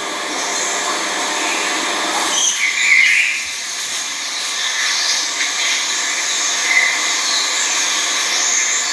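Small birds chirping briefly over a loud, steady hiss-like background, with the clearest chirp about three seconds in.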